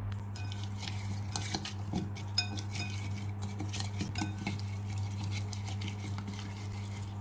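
Clinks and light clatter of kitchenware as oil-coated sweet potato wedges are laid out on a foil-lined baking tray, some knocks ringing briefly, busiest in the first four seconds or so. A steady low hum runs underneath.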